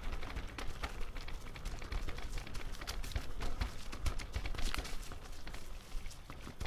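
Footsteps of a walker on a forest trail, a run of irregular short crunches and taps.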